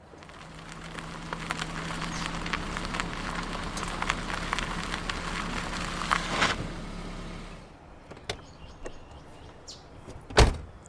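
A car running with a steady low hum that stops about three-quarters through, followed by a couple of light clicks and a single loud car door shutting near the end.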